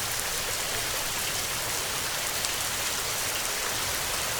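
Heavy rain falling steadily: an even hiss with scattered small drop ticks.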